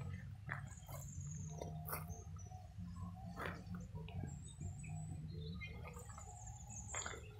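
Small birds chirping now and then with short, thin, high calls, over scattered soft crunches of footsteps on a gravel path.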